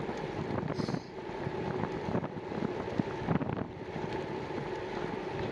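Wind buffeting the microphone and bicycle tyre and road rumble while riding, with a few light clicks and rattles.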